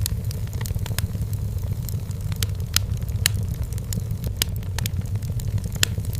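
Firewood burning in a fireplace: frequent sharp, irregular crackles and pops over a steady low rumble of the flames.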